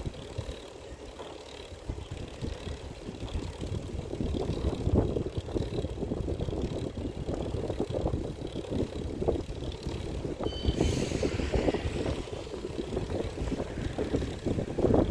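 Rumbling of a moving vehicle with wind buffeting the microphone, rough and uneven throughout. About eleven seconds in there is a brief hiss with a short high squeal.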